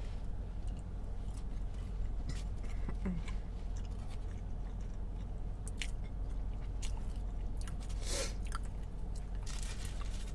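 Close-miked chewing and wet mouth noises of a person eating tacos, with scattered small clicks and smacks and one louder mouth noise about eight seconds in.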